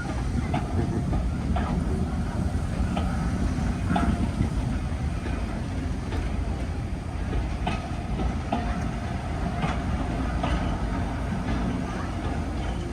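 Heritage railway train running along the track: a steady low rumble with irregular clicks and short squeaks from the wheels and carriage.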